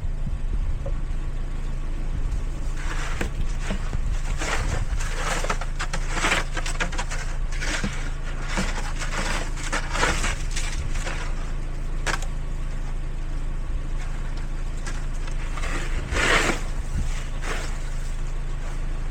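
Steady low rumble of a car, with irregular scraping or crunching strokes from about three seconds in until near the end.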